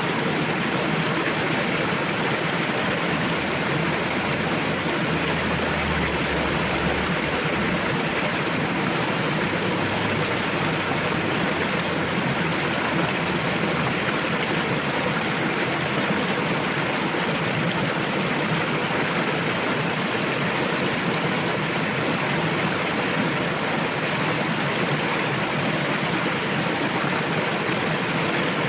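River water rushing: a steady, even rush that does not change.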